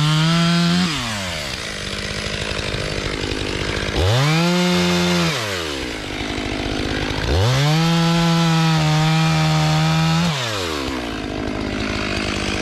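Stihl MS 500i fuel-injected two-stroke chainsaw running loud, revving up to a high steady pitch three times and dropping back, with rougher, noisier stretches in between while it bucks logs.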